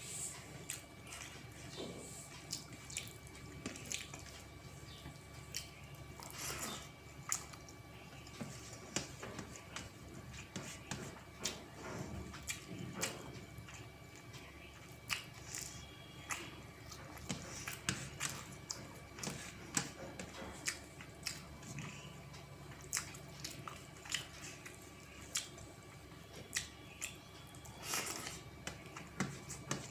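Close-miked eating: chewing and wet, squishy mouth sounds of rice with dal and fish curry, with frequent small clicks and smacks. A faint steady hum runs underneath.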